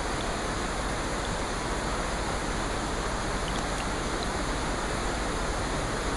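Steady rainfall: an even rushing hiss with a few faint scattered drop ticks.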